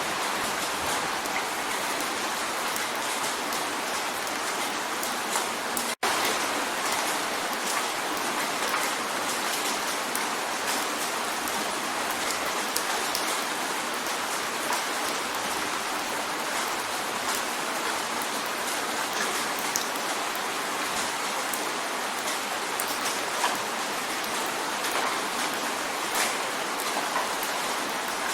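Steady rain drumming on a window pane: a dense, even hiss dotted with many small drop ticks. The sound cuts out for a split second about six seconds in.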